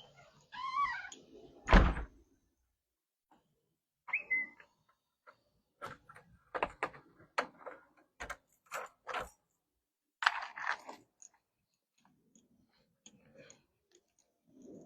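A sharp thump about two seconds in, then a string of scattered knocks and clicks from things being handled near the microphone.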